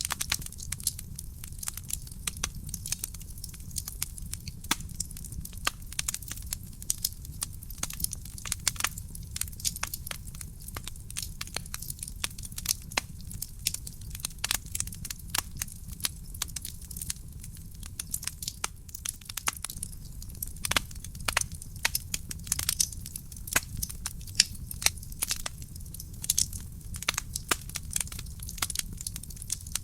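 Wood fire burning in a fireplace: dense, irregular crackles and sharp pops of burning logs over a low, steady rumble of the flames.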